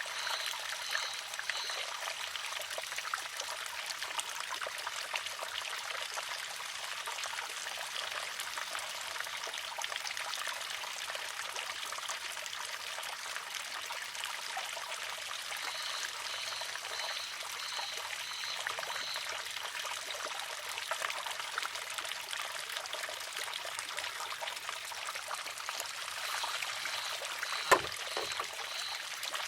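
Water trickles steadily into a wooden shishi-odoshi. Near the end its arm tips, empties and strikes the stone with a single sharp clack. Short runs of high chirps, about two a second, come and go in the background.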